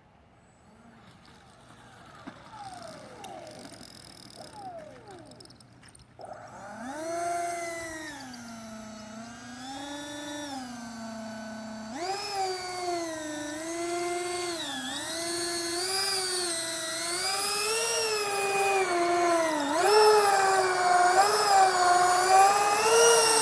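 Twin electric ducted fans of a Dynam Turbojet 550 RC jet whining on landing approach. Faint at first; from about six seconds in a high whine rises and dips in pitch with throttle changes and grows louder, then falls sharply in pitch right at the end as the throttle is cut.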